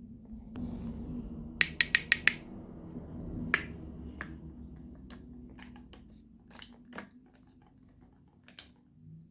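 Small plastic toy kitchen pieces being handled over a low rustle. A quick run of five sharp clicks comes about a second and a half in, then one loud click, then lighter scattered taps.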